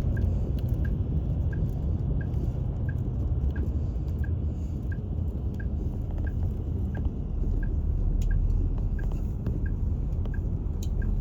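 Steady low rumble with a short high electronic beep repeating evenly about every two-thirds of a second.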